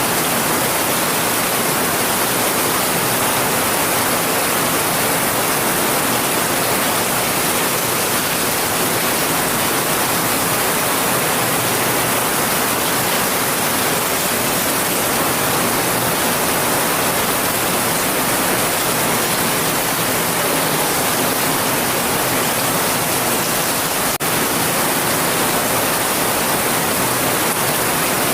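Heavy rain falling steadily, an even, unbroken hiss heavy in the highs, with a momentary dip about 24 seconds in.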